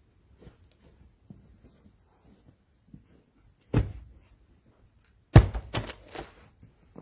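Thuds and knocks: one heavy thud about four seconds in, then a quick cluster of several louder knocks a second and a half later, with faint small clicks in between.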